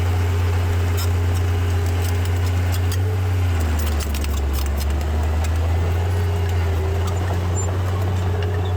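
Heavy earthmoving machine's diesel engine running steadily, its low note dropping a little about three and a half seconds in, with faint metallic clinks over it.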